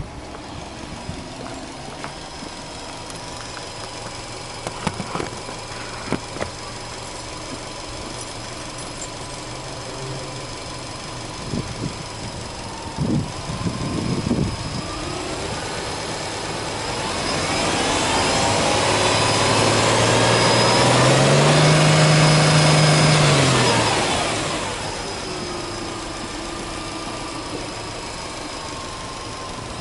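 Subaru Legacy 2.0GT spec.B's turbocharged 2.0-litre flat-four boxer engine idling steadily, then revved once in neutral about two-thirds of the way in: the pitch climbs, holds for about three seconds, then drops back to idle.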